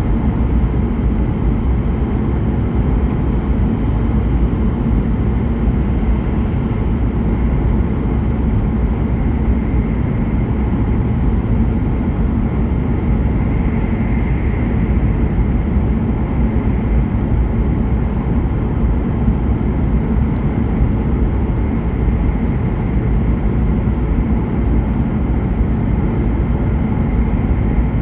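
Steady running noise inside the cabin of a Hokuriku Shinkansen E7/W7-series train at speed: a constant low rumble with a faint whine that swells briefly midway and again near the end.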